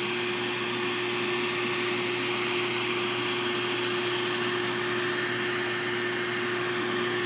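Steady machinery hum: a constant mid-pitched tone over an even hiss, unchanging throughout.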